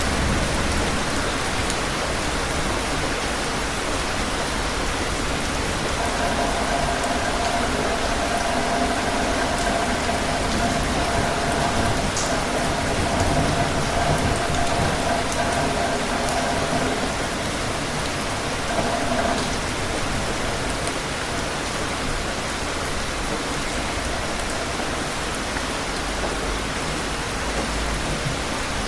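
Steady rain falling hard on surfaces, a constant dense patter. A faint steady tone sits under the rain for about thirteen seconds in the middle.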